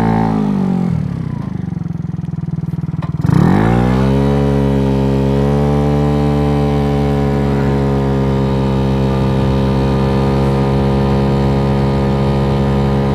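Big-bore 88cc scooter engine with the throttle backed off, its pitch falling to a low, quieter run. At about three seconds in the throttle opens, the revs climb quickly, and the engine holds a steady high-rev cruise.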